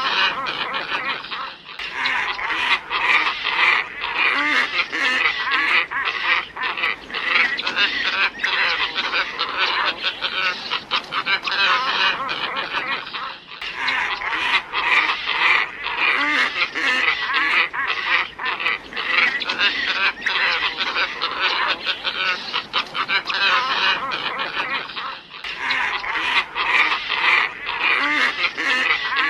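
Recorded calls of a glossy ibis flock, used as a bird lure: many calls overlapping densely, with brief breaks about every twelve seconds where the recording repeats.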